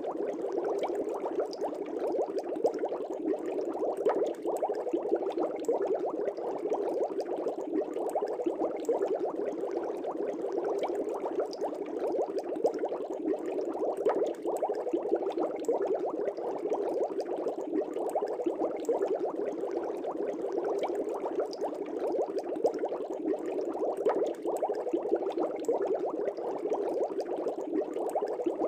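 Fish tank bubbling steadily: a dense, continuous stream of small bubbles rising through the aquarium water, with fine little pops throughout.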